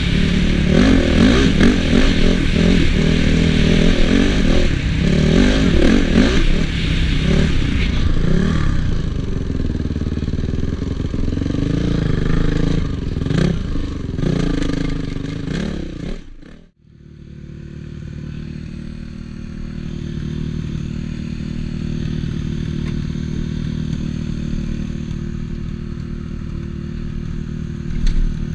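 Honda CRF450 four-stroke single-cylinder motocross engine revving hard for about eight seconds, then running at lower, varying revs. About two-thirds of the way in the sound drops out abruptly for a moment, after which the engine runs at steady low revs.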